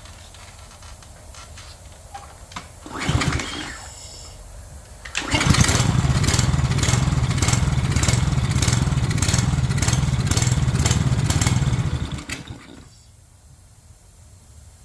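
Craftsman pressure washer's small gas engine being started: a short first attempt about three seconds in, then it catches about five seconds in and runs for about seven seconds with a regular pulsing about twice a second, then dies.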